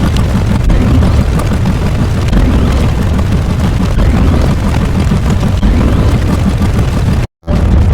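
Loud, continuous rumbling sound effect, heaviest in the bass, like a sustained explosion or engine roar; it cuts out for a split second near the end and resumes.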